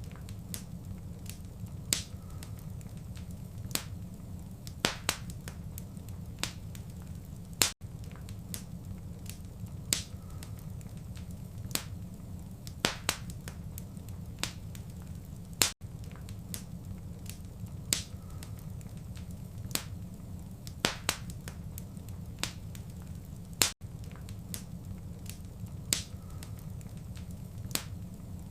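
Wood fire crackling: sharp, irregular pops and snaps, a few every couple of seconds, over a low, steady rumble. A short dropout recurs about every eight seconds, where the recording loops.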